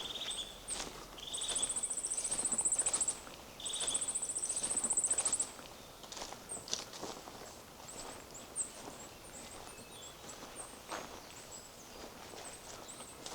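Footsteps on a forest path, with a songbird singing twice in the first half: each time a short lower note and then a high, fast trill lasting under two seconds.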